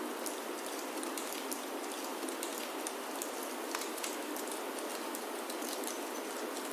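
Steady rain falling on a wooden chalet roof: an even hiss with many small sharp drop ticks scattered through it.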